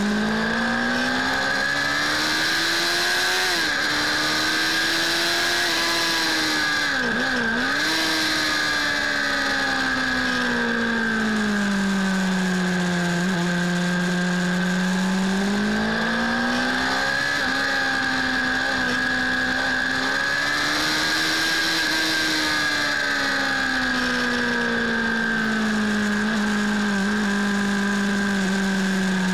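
Suzuki Bandit 600 S inline-four motorcycle engine under hard riding, its pitch climbing under acceleration and falling as it eases off for corners, several times over, with one quick dip and recovery early on. Wind rush runs underneath.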